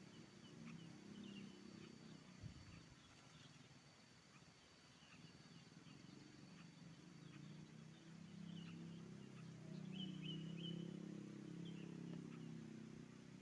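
Faint outdoor ambience: scattered short, high bird chirps over a low steady hum that swells from about eight seconds in.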